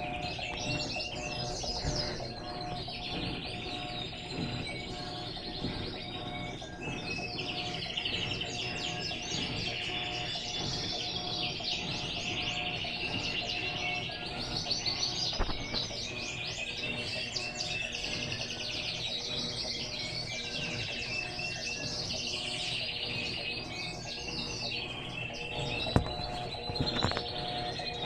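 Many small birds chirping and twittering without a break, over a steady machine hum. Two sharp knocks, about halfway through and near the end.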